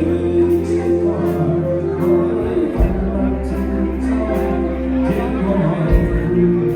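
Live band music with a singer, over a steady drum beat and bass.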